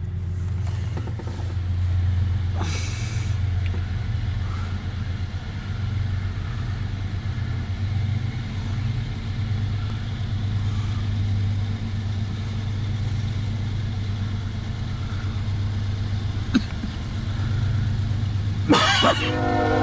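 Steady low hum of an idling car engine, heard from inside the car's cabin. Near the end there is a brief sharp noise, and then a freight locomotive's horn starts to sound.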